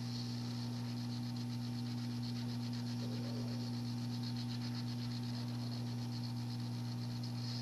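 Hot air rework station blowing onto a circuit board to melt the solder on a small SMD voltage regulator: a steady hum with a hiss of rushing air above it.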